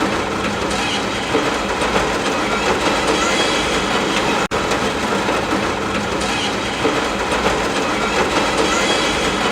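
Continuous dense rushing noise at a steady level, cutting out for an instant about four and a half seconds in.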